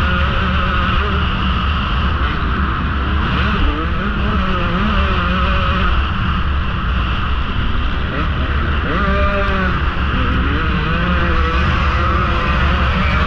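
2017 KTM XC-W 150's two-stroke single-cylinder engine running hard under race throttle, its pitch rising and falling as the rider opens and closes the throttle, with a sharp climb about nine seconds in. Heard from a helmet camera.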